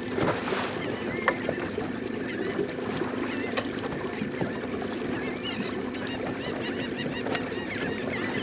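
A flock of birds calling constantly, many short overlapping cries, as they feed over a school of redfish, over the steady hum of a boat motor.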